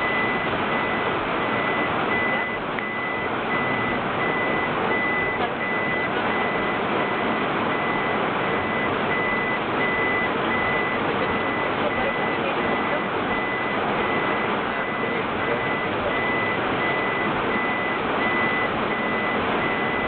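Heavy tropical rain pouring down steadily on and around a vehicle, with an electronic beep at one high pitch repeating at an even rhythm.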